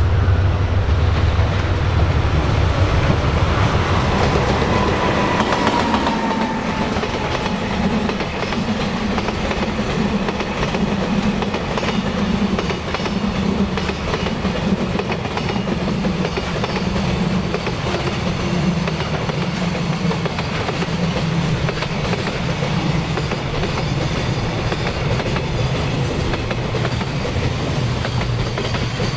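DF200 diesel-electric locomotive moving slowly while shunting: its diesel engine runs steadily, with a low pulsing about once a second.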